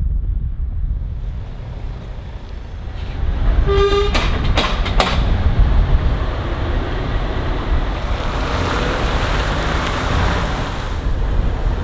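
Heavy truck on the road, a steady low rumble of engine and tyres. A short horn toot sounds about four seconds in, followed by a few sharp clicks.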